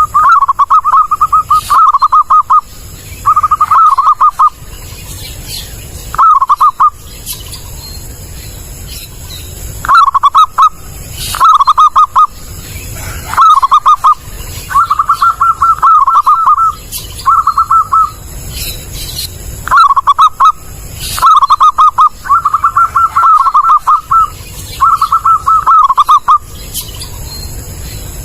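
Zebra dove (perkutut) cooing loud and clear: repeated phrases of rapid, quavering coos, one after another with short pauses between.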